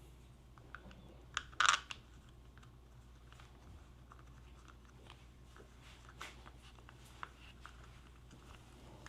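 Small clicks and handling noises of parts and hand tools, with one short, louder scraping burst about a second and a half in, over a steady low hum.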